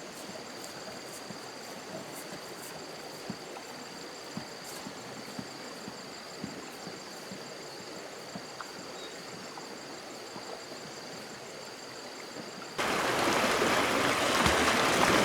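Flowing stream water with a thin, steady high tone and scattered small ticks. About thirteen seconds in, it cuts abruptly to much louder rushing water.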